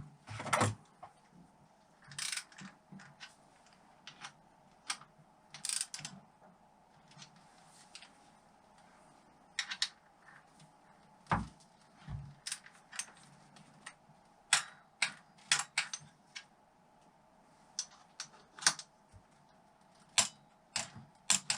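Scattered clicks and light knocks of hand tools and metal engine parts being handled during engine reassembly, with a couple of heavier thumps a little past the middle, over a faint steady hum.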